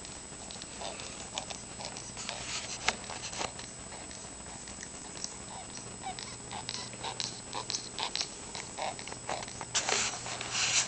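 Sick cockatiel making short, irregular clicks and scratchy sounds, with a couple of louder, hissy bursts near the end.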